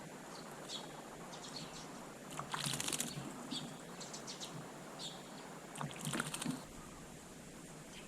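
Small garden birds: short high chirps here and there, and two brief fluttering flurries, about two and a half and six seconds in.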